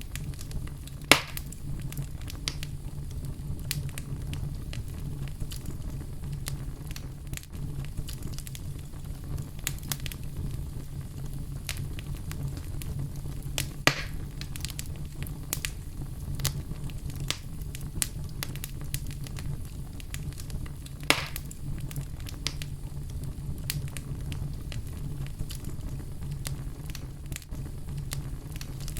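Wood fire burning in a fireplace, crackling steadily with many small snaps over a low rumble, and three louder pops.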